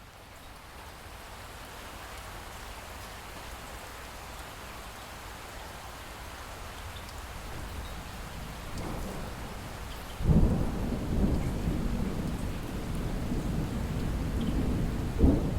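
Light rain falling steadily. About two-thirds of the way in, thunder breaks in with a sudden loud, low rolling rumble, swelling again in a sharper crack near the end.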